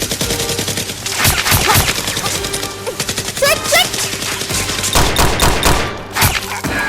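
Rapid gunfire in quick, repeated bursts of shots over background music.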